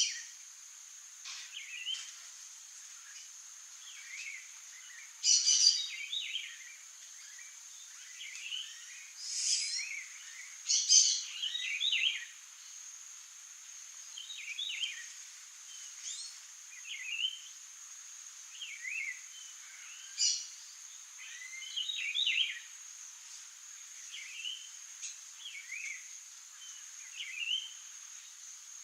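Small songbirds chirping and calling repeatedly in short, high, sliding notes, with a few louder calls in the middle, over a steady high-pitched drone.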